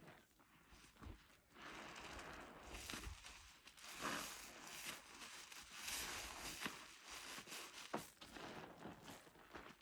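A soapy car-wash sponge being squeezed and released by hand: faint wet crackling of lather in repeated swells about a second apart.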